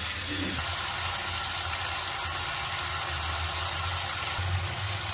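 Chopped tomatoes and onions frying in oil in a steel kadhai, sizzling steadily, with a steady low hum underneath.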